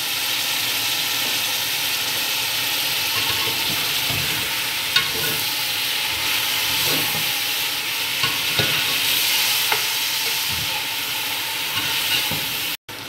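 Chicken pieces sizzling as they fry in oil in an aluminium pot, stirred with a slotted spoon that clicks and scrapes against the pot a few times. The sound drops out for a moment near the end.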